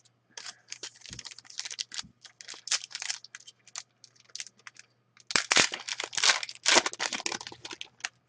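Hockey card pack wrappers being torn open and crinkled, with rapid crackling in two bouts, the second loudest.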